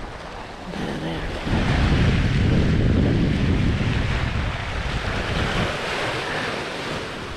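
Sea rushing along the hull of a sailboat under sail, with a wash of water that builds about a second and a half in and eases off a few seconds later. Wind on the microphone.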